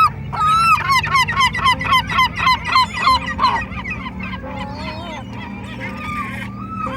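Domestic fowl calling in a rapid series of repeated calls, about four a second, thinning to weaker, scattered calls after about three and a half seconds.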